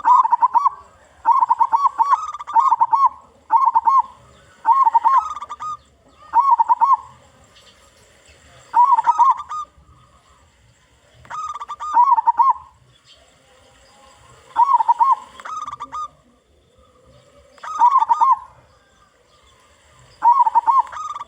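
Zebra dove (local perkutut) cooing loudly in short phrases of quick, rolling notes. The phrases come close together in the first seven seconds, then with pauses of two to three seconds between them.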